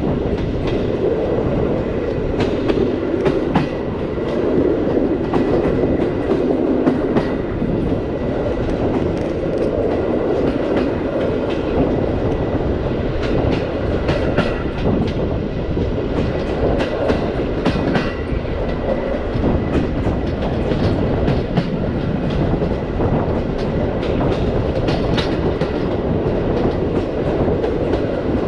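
Passenger train carriage rolling along at speed, a steady rumble of wheels on rails with irregular sharp clacks and knocks as the wheels cross rail joints.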